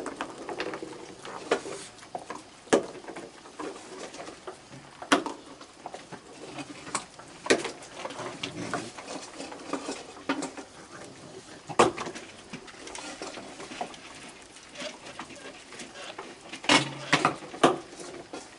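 A crowd of raccoons feeding on thrown cookies: irregular sharp clicks and taps, a quick cluster of them near the end, among soft animal noises.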